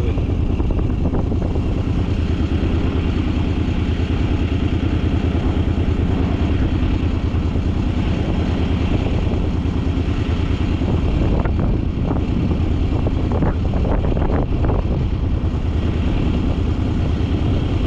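Suzuki vehicle's engine running steadily while driving, a constant low rumble with road noise over it.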